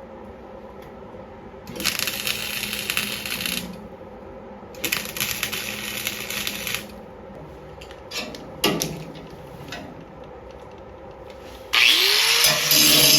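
Two bursts of crackling MIG welding on thin steel, each about two seconds long, then a few clicks. Near the end a loud electric power tool, likely an angle grinder, spins up and runs steadily.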